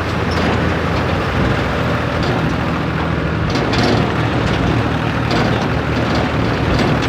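Tractor engine running steadily with a low drone, with a few short knocks or rattles on top.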